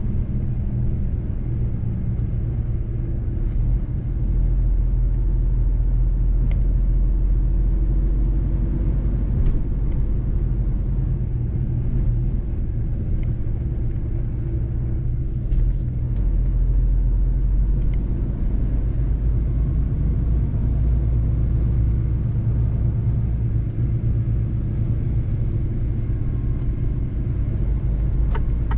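Mercedes-Benz truck driving along, its engine and road noise making a steady low rumble, with a few faint ticks.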